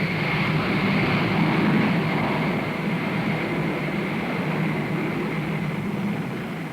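Jet airliner engines running in a steady rush with a high whine, slowly fading.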